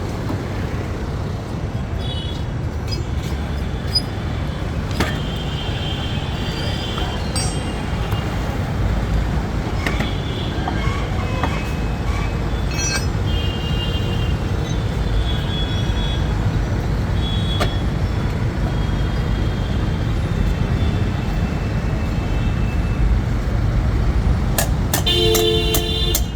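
Steady road traffic rumble with short vehicle horn honks every few seconds and a louder horn blast near the end. A few sharp clicks are mixed in.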